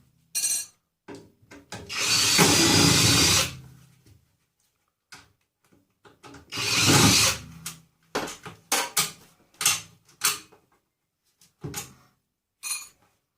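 A power drill runs in three short bursts, used while stripping a microwave oven for scrap. It is followed by a series of short clicks and knocks as the parts are handled.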